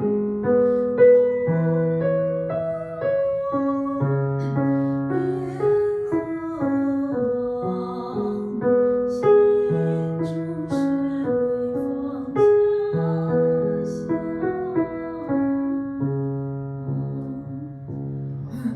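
Piano playing a slow melody over low bass notes.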